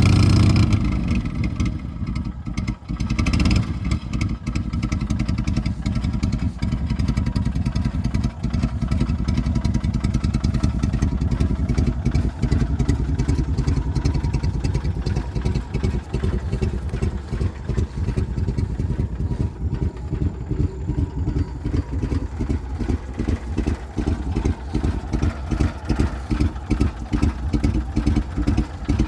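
Cushman turf truck's engine running steadily at idle, a fast even low chugging.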